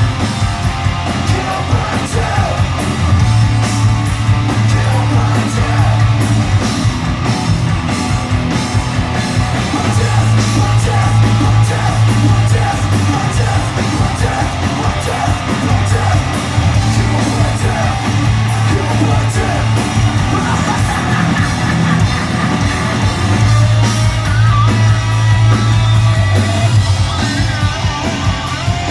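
Live heavy metal band playing loud: distorted electric guitars, bass and drums, with a singer's shouted vocals over a steady, driving bass line.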